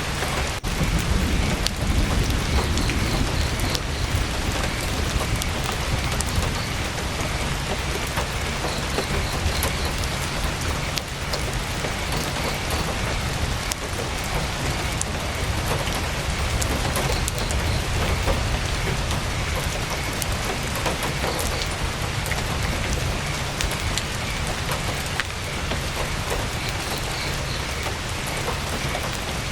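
Heavy rain falling steadily on a tent's fabric, with a deep low rumble swelling about a second in.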